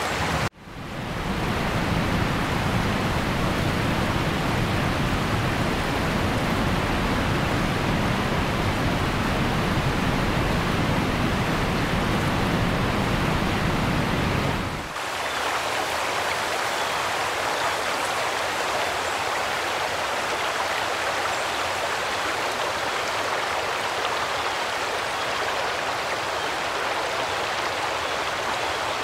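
Heavy rain pouring down in a dense, steady hiss. It drops out for a split second about half a second in. About halfway through, the low rumble under the rain falls away and the hiss carries on.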